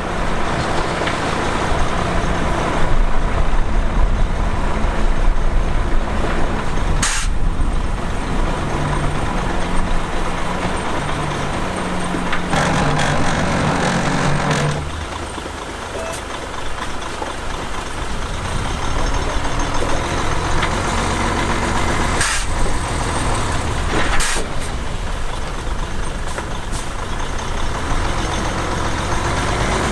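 Heavy diesel machinery working: a bulldozer and dump trucks running steadily, with the engine note stepping up and down and settling lower about halfway through. Several short, sharp hisses cut across it, like truck air brakes releasing.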